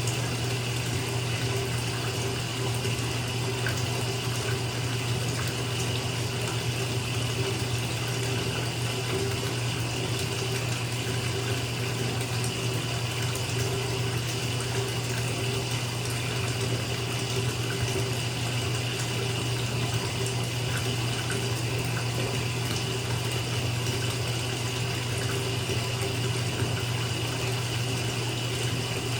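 Bathtub tap running into a filling tub: a steady rush of water pouring into the bathwater, with a low, even rumble underneath.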